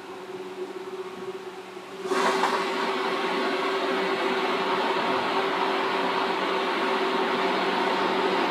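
Seibu 2000 series electric train running, heard from inside the car: a steady running rumble with a steady hum. About two seconds in it suddenly becomes much louder and more rushing, and stays at that level.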